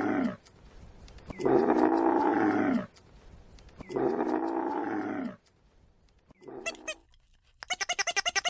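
An animal calling in long drawn-out calls, each lasting about a second and a half and dropping in pitch at the end, repeated twice, followed by a short call and then a quick run of rapid sharp pulses near the end.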